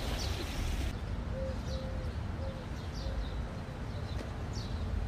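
Birds chirping: short high chirps that slide downward, roughly one a second, with a run of short lower notes in between, over a steady low rumble.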